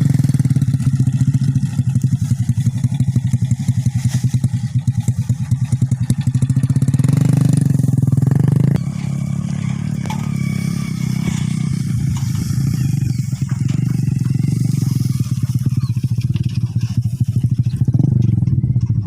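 Motorbike engine running with a rapid, throbbing pulse, dropping to a somewhat lower level about nine seconds in.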